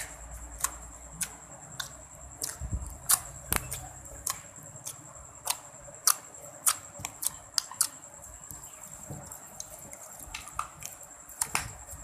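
Slime being worked by hand, giving irregular sharp clicks and pops several times a second, with a faint steady high-pitched whine behind.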